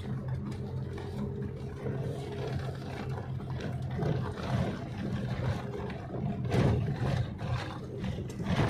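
A 4x4 vehicle's engine running steadily as it drives a rough, rocky mountain road, with scattered knocks and rattles from the bumps.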